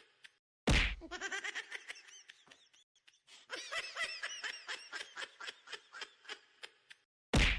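People laughing in quick rhythmic bursts, broken twice by a brief gap and a sudden loud burst, about a second in and again near the end, with a lull in the middle.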